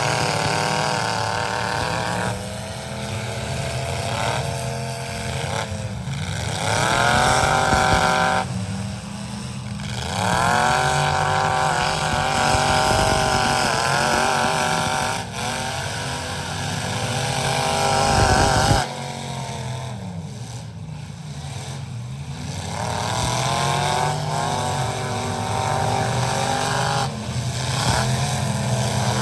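Truck engines revving hard in a demolition-derby-style heat, their pitch repeatedly climbing as they accelerate and falling back. The loudest rev ends abruptly a little past halfway.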